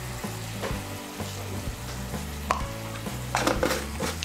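Spice paste bubbling and sizzling in hot oil in a kadai, with a few sharp clicks, the loudest a quick cluster near the end. A soft background music bass line runs underneath.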